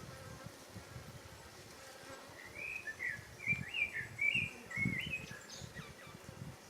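A bird singing a quick series of short chirping notes for about three seconds, starting a couple of seconds in, over a low rumbling background.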